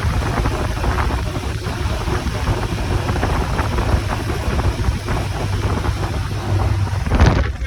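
Wind buffeting the microphone over the steady low running of a motorcycle engine while riding, with a brief louder gust near the end.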